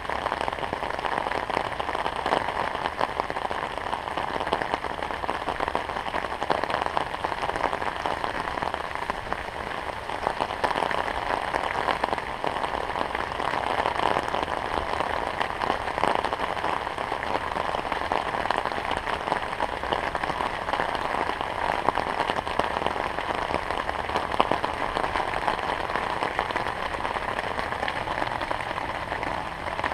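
Steady rain falling, a dense even hiss of drops hitting surfaces.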